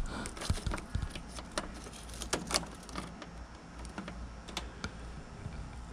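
Scattered light clicks and taps of a multimeter's probes and hand tools being handled at a heat pump's electrical terminals, over a faint low hum.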